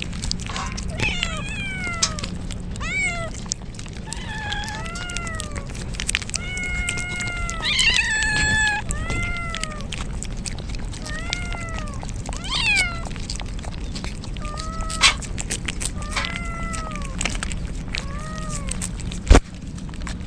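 Kittens meowing again and again, about a dozen short, high calls that rise and fall, over a steady background hiss. A single sharp knock near the end.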